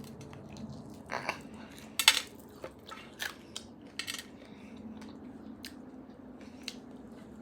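Close-miked eating sounds from working at a roasted marrow bone: irregular sharp clicks, scrapes and short crunches of teeth and cutlery on bone, the loudest about two seconds in.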